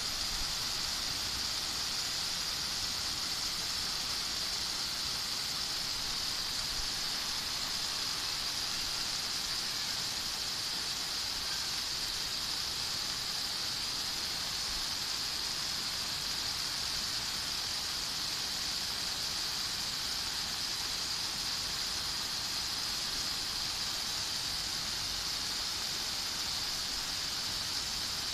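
Steady rain falling: an even hiss that does not change or break.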